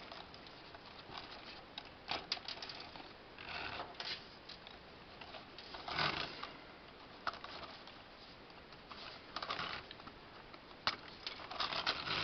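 Lego plastic pieces being handled and twisted off a brick-built model truck: irregular small clicks and rattles of plastic with brief rustles of handling.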